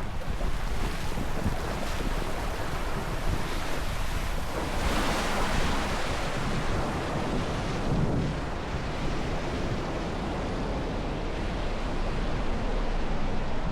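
Steady rush of flowing water from the water slide, with wind buffeting the microphone; it swells for a moment about five seconds in.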